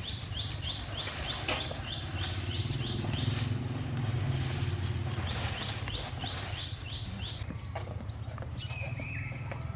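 A bird calling in rapid runs of short, high, down-curving notes, about four a second, in two bursts with a pause between, over a steady low rumble.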